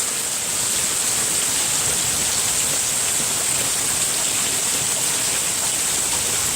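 Heavy thunderstorm rain falling steadily, an even hiss that neither builds nor eases.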